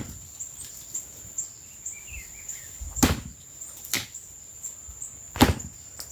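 Axe chopping into the dry trunk of a dead cashew tree: three sharp blows, the first about three seconds in, then one a second later and one about a second and a half after that.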